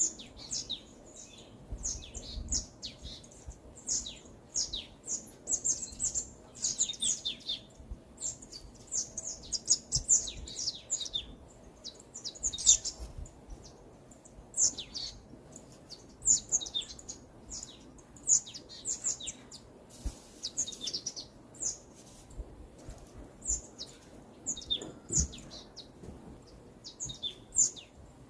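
Several birds chirping and singing in the forest, with quick high notes that overlap one another almost without pause.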